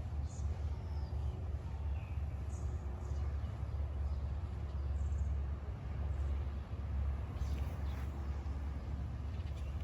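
A steady low rumble, with a few faint, short, high bird chirps scattered through it.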